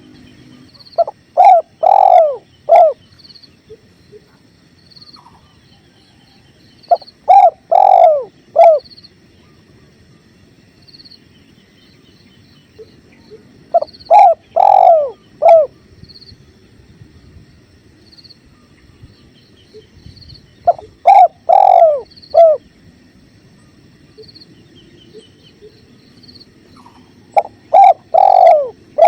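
Spotted dove (tekukur) cooing: a phrase of about four coos, one of them drawn out, repeated five times about every six to seven seconds. Under it runs a faint steady rush of flowing river water with faint high chirps.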